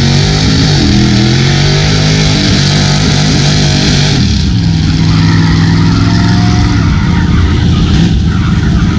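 Truck engine running hard at high revs, its pitch dipping and climbing again about a second in and again around four seconds in.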